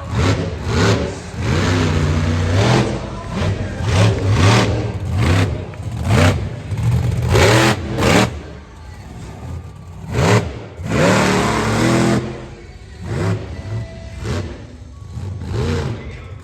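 Monster truck engine revving hard in repeated surges, its pitch climbing and dropping back again and again. The longest and loudest rev comes about eleven seconds in.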